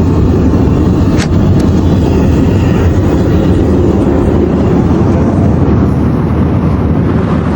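Airliner cabin noise in flight: a loud, steady rush of engine and airflow, heaviest in the low range, with a brief click about a second in.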